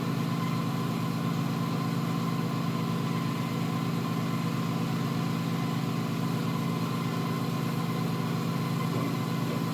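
Steady, unchanging machine hum with a faint high tone above it.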